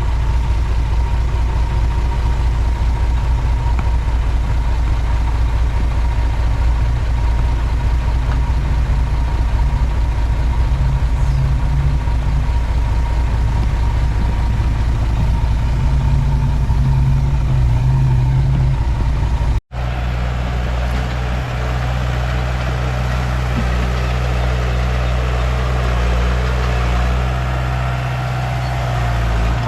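Komatsu D31P bulldozer's diesel engine running steadily under work. About two-thirds of the way through the sound breaks off for an instant and comes back with a different tone.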